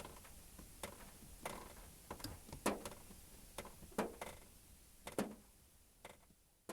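Raindrops tapping on a car roof: single sharp drops at irregular intervals, roughly one or two a second, over a faint hiss of light rain.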